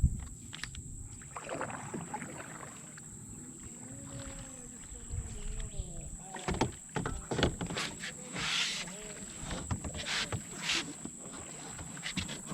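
Canoe paddling: paddle strokes splashing in the water, with a few sharp knocks of the paddle against the canoe about halfway through.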